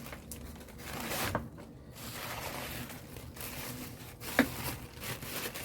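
Soft rustling and scraping of a thin paper napkin being handled and pressed down on paper, with two light clicks.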